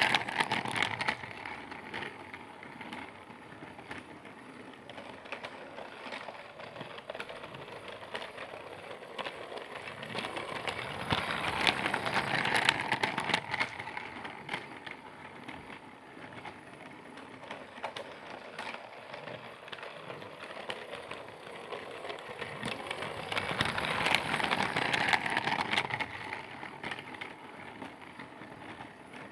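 Percy toy train rolling around its track with a steady clicking clatter of wheels, growing louder about every twelve seconds as it comes past and fading as it moves away.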